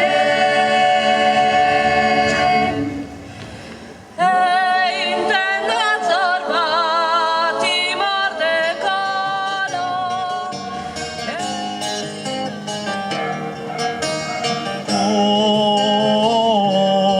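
Sardinian folk singing: voices hold a steady chord that stops about three seconds in. After a brief dip, a solo voice sings an ornamented melody with a strong, wavering vibrato.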